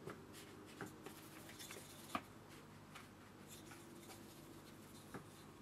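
Faint scratching of a paintbrush working a thick paint mix onto watercolour paper, with a few light clicks, against near silence.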